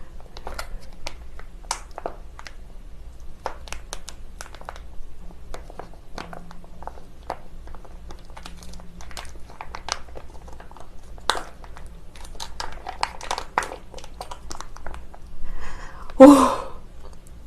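Close-miked crinkling and many small sharp clicks, as of food packaging being handled, with some chewing. About a second before the end comes one short, loud vocal sound.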